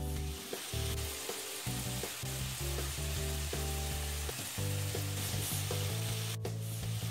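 Chicken sizzling in a frying pan and a wire whisk beating soup and broth in a glass bowl, over background music.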